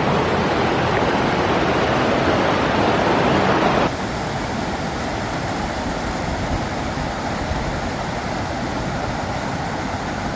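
A creek's water rushing steadily. About four seconds in, the sound cuts abruptly to a slightly quieter, duller rush.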